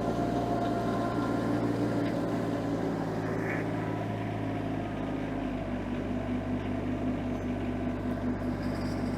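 An engine running steadily, its tone shifting slightly about five and a half seconds in.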